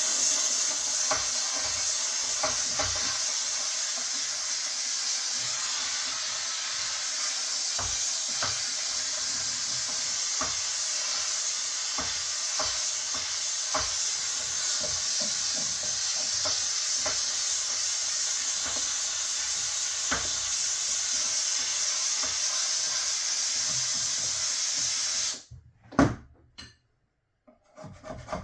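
Small handheld steam cleaner jetting steam over a PVC plastic beehive box: a steady high hiss with light clicks and knocks scattered through it. The steam cuts off about 25 seconds in, followed by a single sharp knock.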